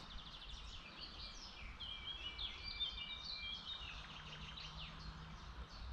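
Songbirds singing faintly, several quick overlapping chirps and trills, over a soft outdoor hiss.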